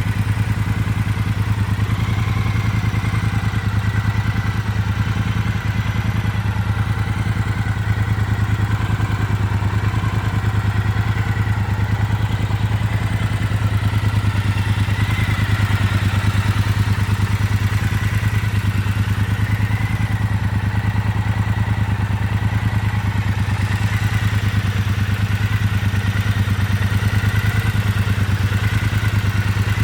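Triumph Bobber Black's 1200 cc parallel-twin engine idling steadily, with no revs.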